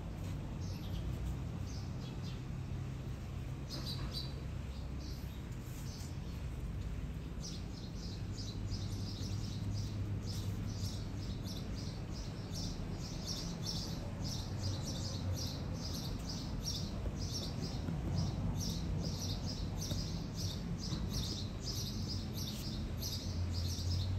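A bird chirping rapidly: short high chirps, several a second, beginning about seven seconds in and going on steadily, over a low steady hum.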